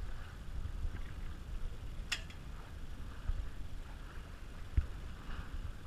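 Wind rumble on the microphone while out on a small sailboat, with a short high squeak falling in pitch about two seconds in and a single knock near the end.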